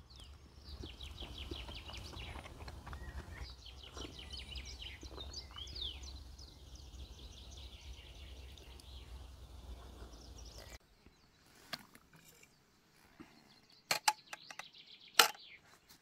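A songbird singing repeated chirping, trilling phrases over a faint low rumble, for about ten seconds. The sound then cuts off abruptly, and a few sharp taps follow near the end.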